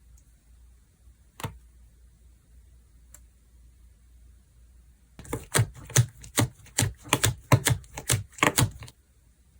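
Slime being pressed and squeezed by hand, giving a single crisp click and then a quick run of sharp clicks and pops, about three a second, as air pockets in the slime burst.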